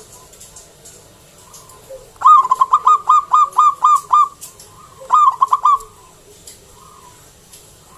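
Zebra dove (local perkutut) cooing: a fast run of about nine clipped, rhythmic notes, then after a short pause a shorter run of about four, with faint high chirping behind.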